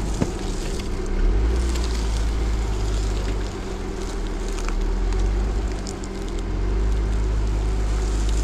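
Jeep Gladiator Rubicon crawling slowly along a tight off-road trail, its engine a steady low drone that swells and eases a little with the throttle. A few light ticks come through over it.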